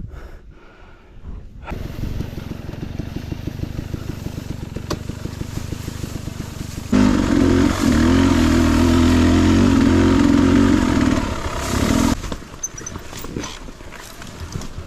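Beta 300RR two-stroke dirt bike engine, starting about a second and a half in at low revs with quick even pulses. About seven seconds in it is revved up and held steady and loud for some five seconds, then drops back off the throttle.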